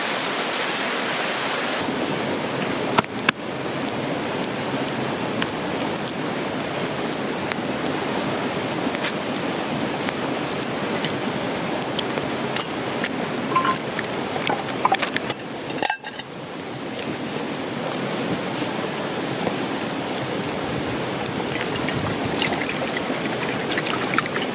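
River water flowing steadily, with scattered small clicks and clinks over it.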